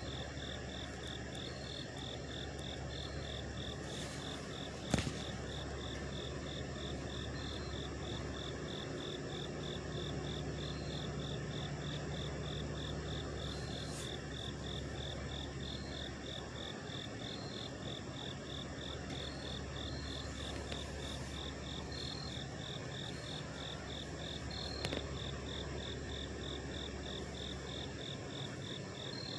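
Steady low drone of several idling trucks, with night insects chirping over it in an even pulse of about two a second. A single sharp click comes about five seconds in.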